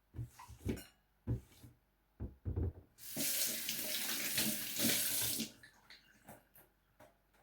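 A few hard knocks and clunks of things being handled, then a kitchen tap running for about two and a half seconds and shut off, followed by a few light clicks.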